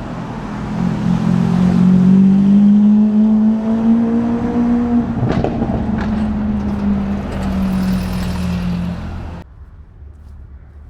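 A supercar's engine running loud, its pitch rising a little and then easing off, with two sharp cracks about five and six seconds in; the sound cuts off suddenly near the end.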